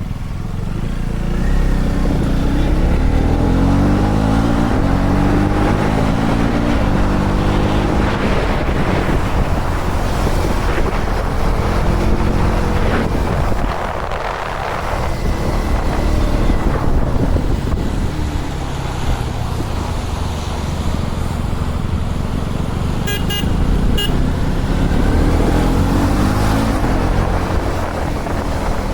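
KTM Duke 250's single-cylinder engine running under way, its pitch rising several times as it accelerates and dropping once about halfway through. Two short horn toots, a second apart, near the end.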